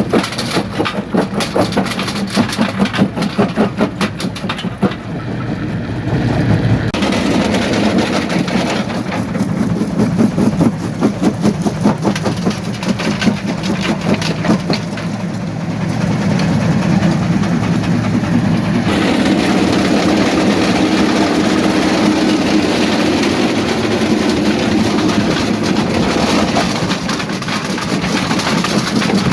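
Jaw rock crusher working a load of stone: a steady heavy machine drone with rapid clattering and cracking of rock, thickest in the first few seconds. The sound changes abruptly twice.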